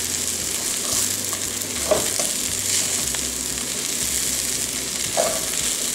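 Corn kernels and chicken feet frying in lard in a clay cazuela, sizzling steadily while a spoon stirs them around the pot.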